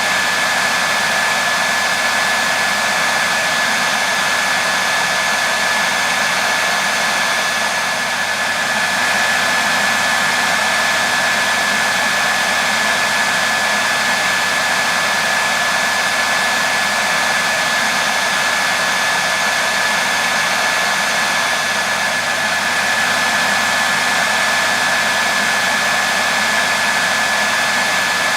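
Hair dryer running steadily, an even rushing blow with a thin high whine from its motor.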